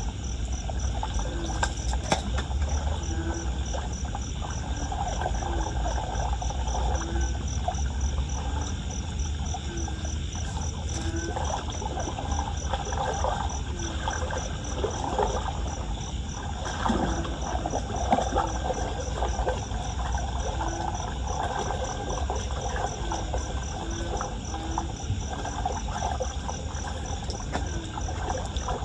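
Insects chirping in a steady rhythm of about three pulses a second, with short low calls every second or two, over a low rumble and splash of running floodwater.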